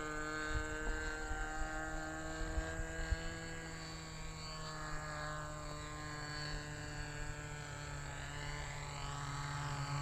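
Propeller and motor of a flying RC lawnmower model aircraft in flight, a steady droning hum whose pitch drifts slowly down and up as it flies around. Wind buffets the microphone underneath.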